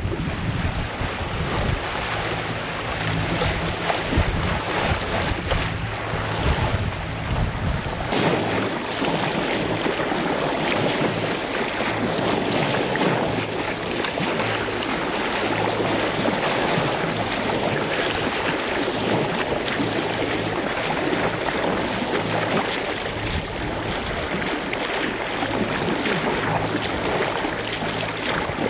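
Sailboat at sea: water rushing along the hull and waves, with wind buffeting the microphone. A low steady hum sits underneath, strongest for the first several seconds.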